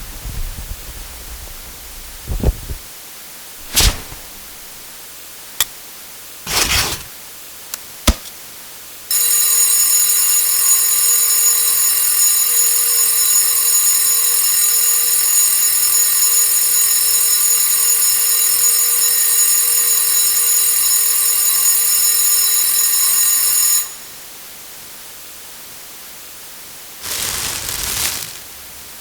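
A series of household sound-effect samples. First come a few short clicks, then a loud, steady, buzzy electronic alarm-like tone that lasts about fifteen seconds and stops suddenly. Near the end there is a brief rustle of paper or cardboard.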